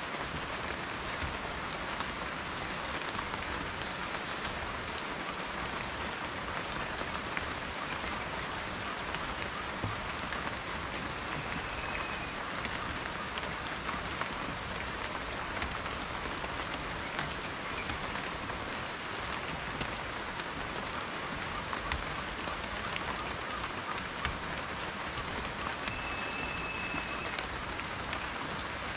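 Steady rain falling, a dense even hiss of raindrops with scattered sharper drop ticks.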